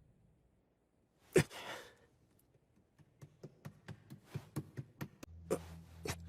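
Anime soundtrack sound effects: one sharp hit with a brief rush of noise after it, then a run of quick light taps, about four or five a second, that grow louder. A low music drone comes in near the end.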